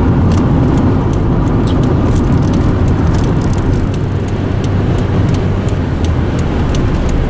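Steady road noise inside a moving car: a dense rumble of tyres and engine, with scattered sharp ticks over it.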